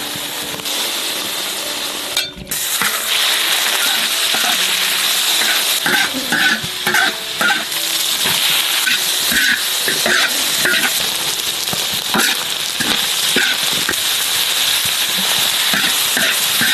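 Food sizzling hard in a hot pan while it is stirred and tossed, with repeated scrapes and knocks of the spatula against the pan. The sizzling starts after a sudden break about two seconds in.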